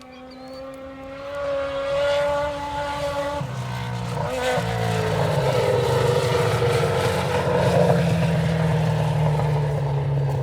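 Suzuki GSX600 inline-four engine in a Honda Odyssey buggy running under load, growing louder over the first few seconds. Its pitch climbs, changes about a third of the way in, then slowly falls.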